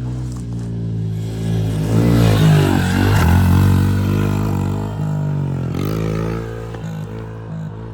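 Honda CRF110 pit bike's small single-cylinder four-stroke engine revving up, loudest about two to four seconds in, with the pitch dropping and climbing again twice as the throttle is rolled off and back on.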